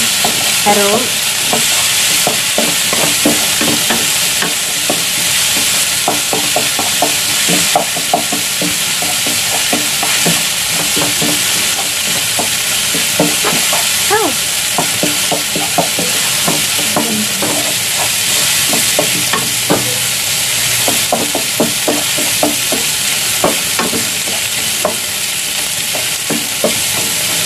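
Chopped chilli, ginger and onion sizzling steadily in hot oil in a frying pan while a wooden spatula stirs and scrapes through them in repeated short strokes: the spice base being sautéed until fragrant.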